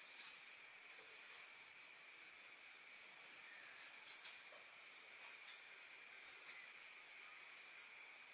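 Orange-headed thrush giving thin, high 'ngecis' calls: three descending whistles, each about a second long and about three seconds apart. A steady high-pitched drone runs underneath, the kind of call used to lure a male thrush.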